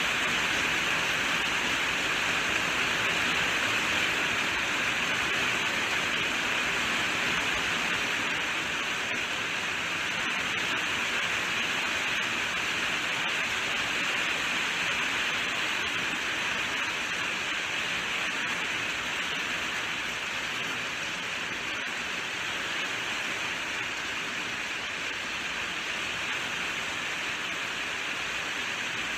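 Steady rainfall, a dense even hiss with no distinct drops or thunder, easing slightly in level through the second half.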